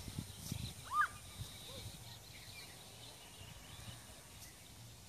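Quiet open-air ambience with one short bird call about a second in and a few faint chirps over a steady low background.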